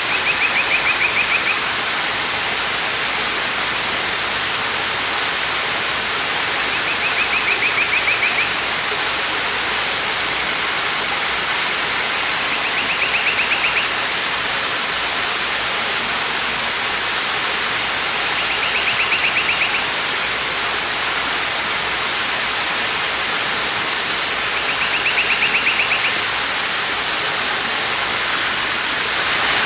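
Waterfall rushing steadily. Over it, a short, rapidly pulsed high trill of about a second and a half repeats about every six seconds.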